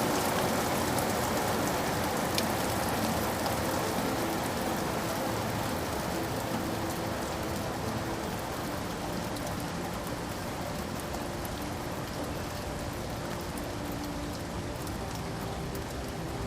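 Steady rain falling, a dense hiss with scattered drop ticks, gradually easing a little in loudness.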